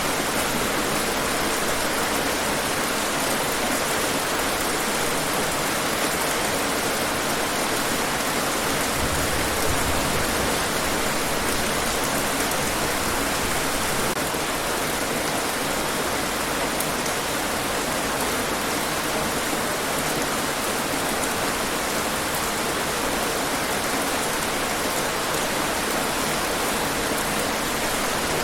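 Steady, even rain falling on hard surfaces.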